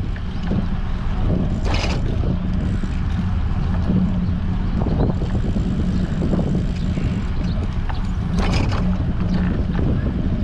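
Wind buffeting the microphone of a camera on a moving bicycle: a loud, steady low rumble with a low hum under it, and two short hissing bursts, about two seconds in and again past eight seconds.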